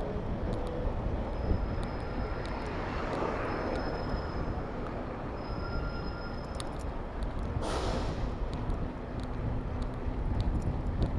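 Wind rumble on a bike-mounted camera's microphone over city traffic noise while riding. A short, loud hiss cuts through about three-quarters of the way in.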